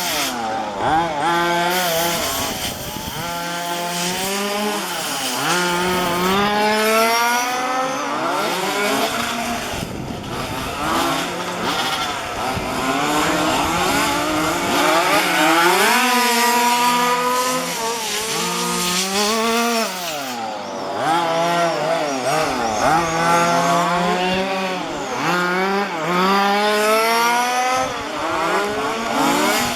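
Several 1:5-scale petrol RC cars' small two-stroke engines running on a race track, their pitches overlapping as each one revs up and drops off again and again.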